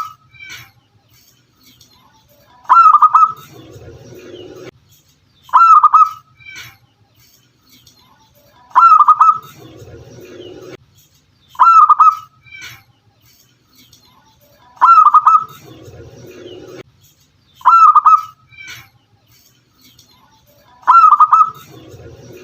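Local zebra doves (perkutut) calling: a short, loud call of a few quick notes repeats about every three seconds, with a softer, lower sound about every six seconds in between.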